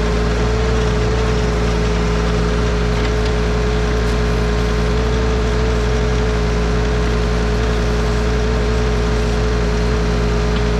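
Bad Boy 4035 compact tractor's diesel engine running steadily, with a constant high whine over it.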